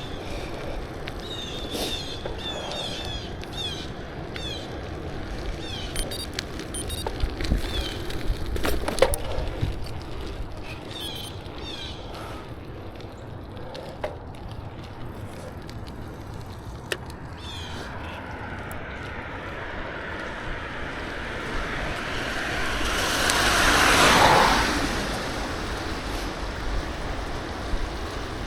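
Wind noise on the microphone during a bicycle ride, with birds chirping in the first half. Later a vehicle passes close, growing louder over several seconds, loudest about three-quarters of the way through, then fading.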